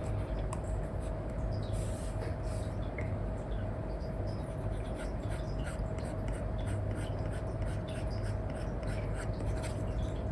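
Stylus nib on a paper-like screen protector, scratching and tapping in many quick short strokes. There is a steady background hiss with a thin constant tone under it.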